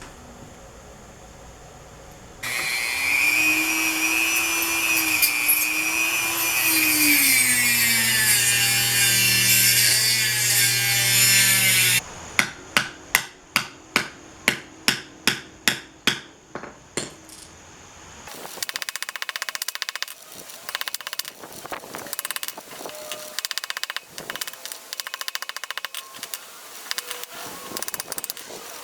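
A power tool runs loudly for about ten seconds, its pitch wavering and sagging as it cuts into metal. It stops abruptly and is followed by about ten sharp knocks, roughly two a second. Then comes a stretch of irregular clattering and scraping.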